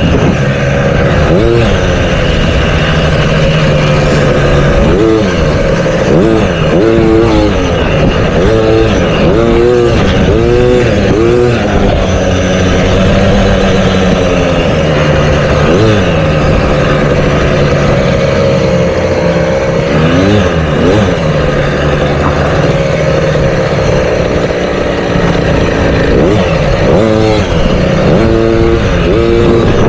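Motocross dirt bike engine running hard around the track, the engine note rising and falling over and over as the throttle is opened and closed through shifts and corners.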